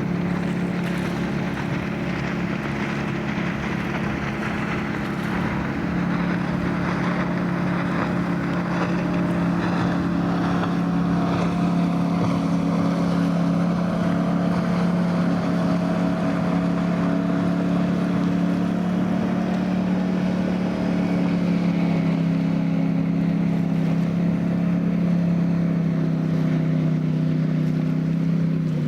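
Ski boat's engine running steadily under way, with water rush and wind on the microphone; its pitch drops slightly near the end.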